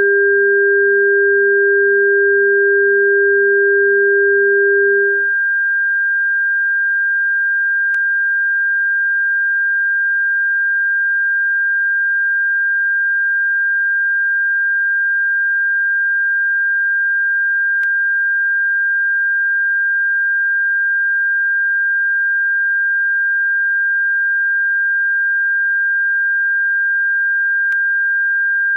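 Electronically generated bird-repellent tones: a steady high-pitched pure tone throughout, with a lower pure tone alongside that stops about five seconds in. Very faint clicks come about every ten seconds.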